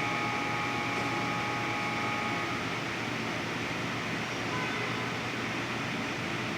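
Steady whooshing hum of a fan or air conditioner, with faint steady whining tones that stop about two and a half seconds in.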